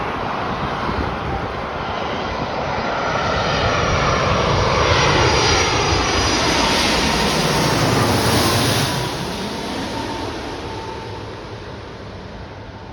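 Airbus A330-300 jetliner with Rolls-Royce Trent 700 turbofans passing by on arrival. The jet noise swells over a few seconds, peaks with whining tones sliding down in pitch, then dies away from about nine seconds in.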